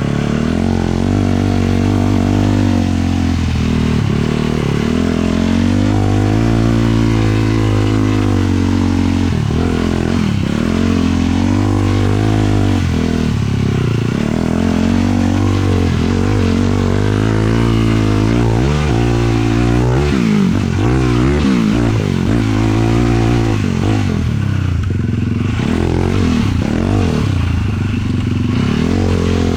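450cc single-cylinder four-stroke sport quad engine under riding load, its pitch climbing and falling as the throttle opens and closes, with several sharp drops off the throttle.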